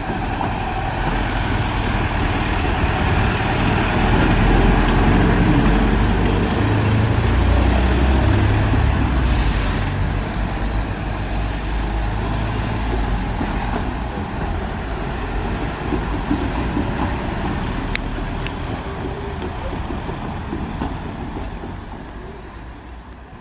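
A train rumbling, loudest about five to nine seconds in, then slowly fading away.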